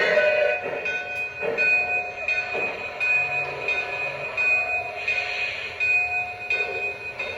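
Lionel Legacy O-scale consolidation steam locomotive running, its onboard sound system playing train sounds with short, repeating tones.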